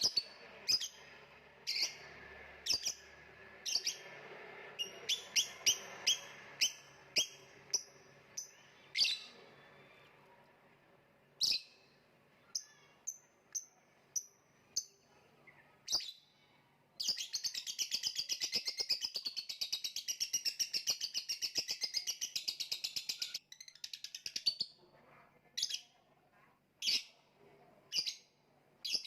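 Lovebird chirping in sharp, separate high calls, breaking a little past halfway into a long, rapid, unbroken chattering trill of about six seconds, then back to single chirps.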